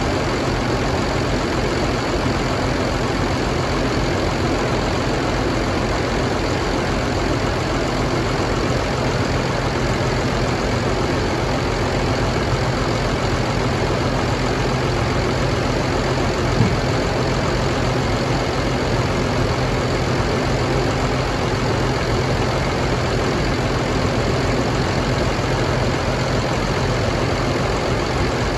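2009 Cummins ISB6.7 inline-six turbodiesel idling steadily, with one brief knock about halfway through.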